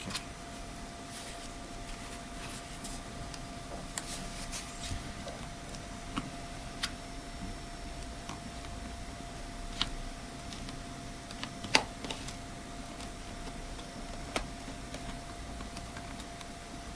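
Scattered small clicks and taps of hand tools and plastic parts as a tablet is taken apart, a sharper click about ten seconds in and another near twelve seconds, over a steady faint hum.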